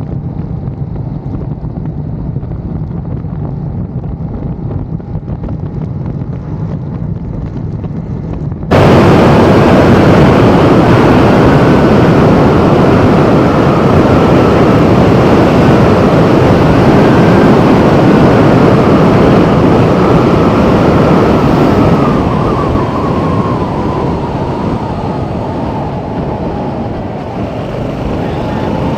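Motorcycle on the move with heavy wind rush on the microphone. The noise jumps abruptly louder about nine seconds in and eases off again near the end.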